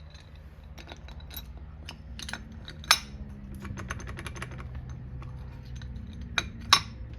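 Small metal parts clicking and clinking as clutch plates and a spacer are fitted into an ATV clutch basket, with two sharper clacks, one about three seconds in and one near the end, over a steady low hum.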